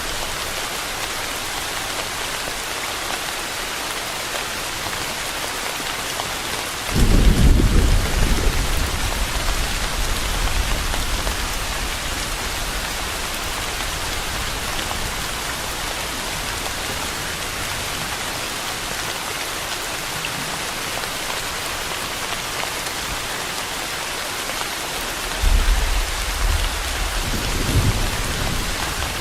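Steady rain hiss, with low rolls of thunder about seven seconds in and again near the end, each rumbling for a few seconds.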